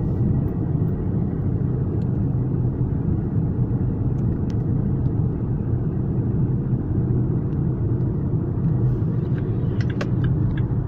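Car cabin road and engine rumble, steady while driving at speed, with a few sharp clicks near the end from the turn indicator starting to tick.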